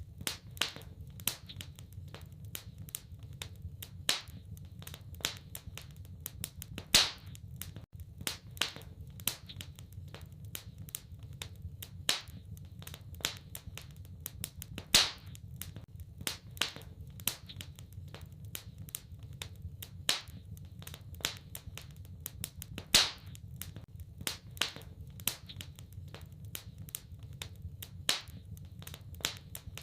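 Wood fire crackling in a fireplace: a dense run of sharp clicks and snaps, with a louder pop about every eight seconds, over a steady low rumble.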